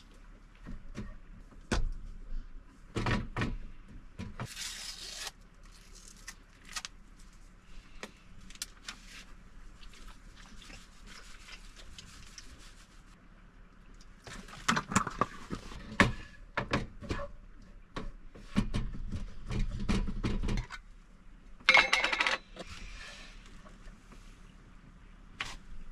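Hand food-preparation handling noises while a tortilla wrap is assembled: intermittent rustling with scattered knocks and clicks, and a short louder rustle near the end.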